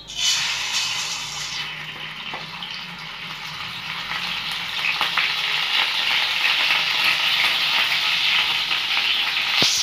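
Ginger-garlic paste sizzling in hot oil and ghee in a kadai, stirred with a ladle. The sizzle breaks out suddenly as the paste hits the oil, eases a little, then grows louder and steadier, with a few light scrapes of the ladle.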